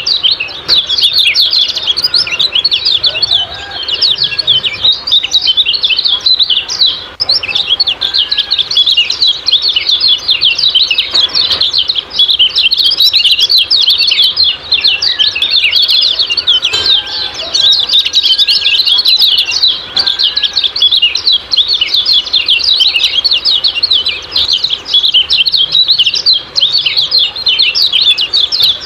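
Common iora (kecial kuning) giving its 'ciak-ciak' call: a dense, unbroken stream of quick, high-pitched chirps that overlap.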